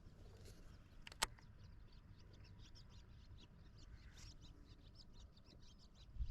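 Faint bird chirps, many short high notes scattered throughout, over a low rumble, with one sharp click about a second in.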